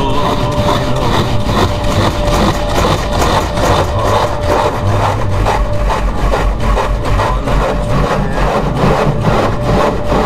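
Automatic car wash in operation: rotating brushes scrubbing over the car in a steady rhythmic swishing and rubbing, about two to three strokes a second, over a steady machine hum.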